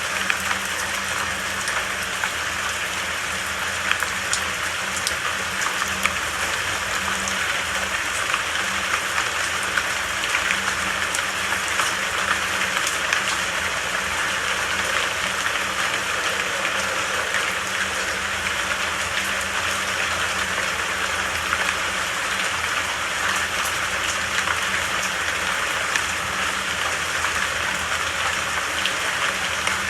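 Steady rain falling, a dense even patter with many individual drops ticking on surfaces.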